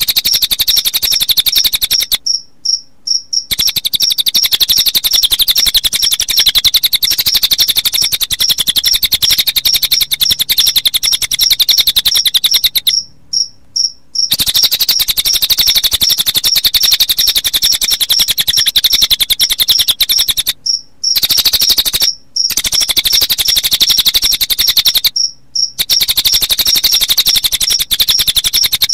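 Recorded song of the cililin bird: a very fast, high-pitched trill in long runs of several seconds, broken by short pauses, over a cricket chirping at a steady regular rate that carries on through the pauses.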